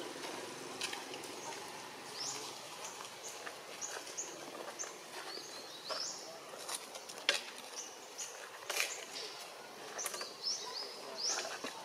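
Birds chirping: many short, high notes that sweep upward, repeated through the whole stretch. Scattered light clicks and rustles sound underneath.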